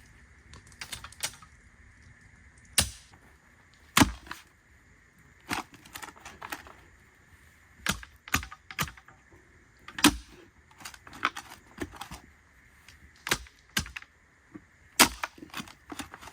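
Manual post hole digger jabbed into hard clay: a sharp strike about every one and a half seconds, with lighter knocks of the blades and handles in between. The going is slow because the ground is solid clay.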